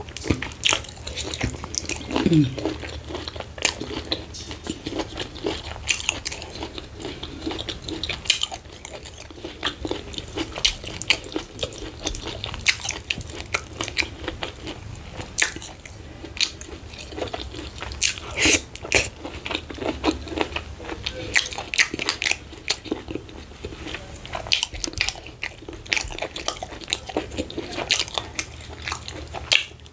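Close-up chewing and lip-smacking of oatmeal fufu with slimy ogbono soup, eaten by hand: irregular wet clicks, smacks and sticky mouth sounds throughout.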